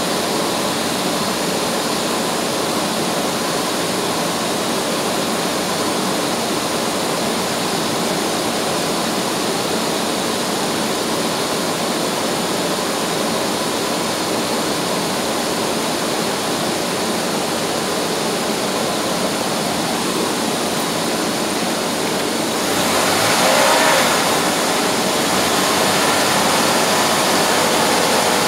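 A 3.8 L V6 idling while coolant pours from a jug into the radiator filler neck. The engine is warming up after an intake manifold gasket job so that the cooling system can be topped off and bled of air. About 23 seconds in, the engine note rises and then holds a little higher and louder.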